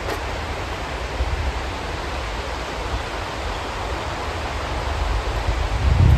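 Steady rain falling, a continuous even hiss over a low, unsteady rumble, with a brief low thump just before the end.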